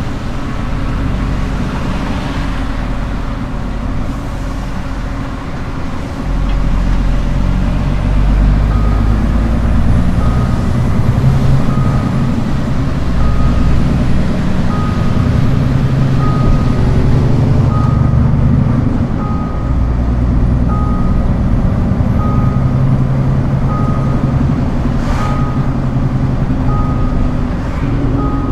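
Scania R410 concrete mixer truck's diesel engine running, growing louder about six seconds in. From about nine seconds in, a reversing alarm beeps about once a second, as the truck backs up.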